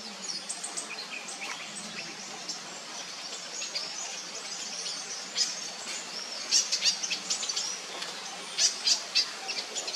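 Crimson-backed sunbird calling: rapid, high-pitched chirps and short trills, with louder bursts in the middle and near the end.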